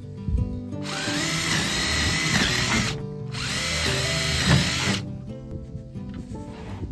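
Power drill running in two bursts of about two seconds each, with its motor pitch dipping under load in each one, over background music.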